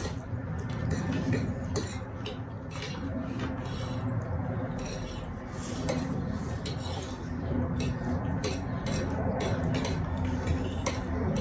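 Cutlery clinking and scraping against dishes while eating noodles and chicken, with irregular sharp clicks throughout over a steady low hum.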